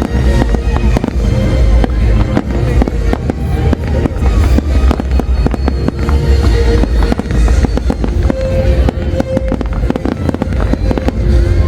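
Fireworks display going off non-stop: a rapid, unbroken run of bangs with deep booms, over music with held notes.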